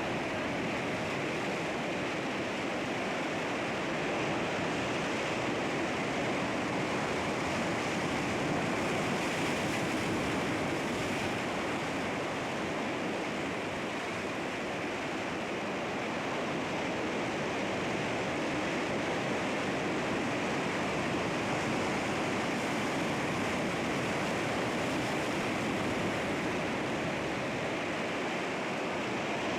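Sea waves washing against rocks, a steady rush of surf that swells and eases gently.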